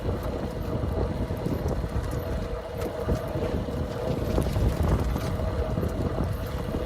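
Wind buffeting the microphone on a boat at sea, with a steady hum underneath.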